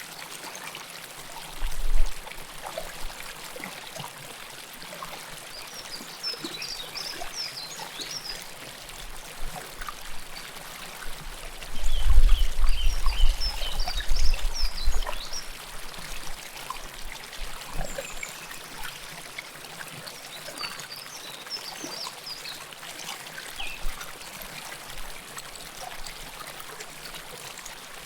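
River water flowing and trickling close to the microphone. Short bursts of high chirping come a few times, and low rumbles come about two seconds in and again for a few seconds near the middle.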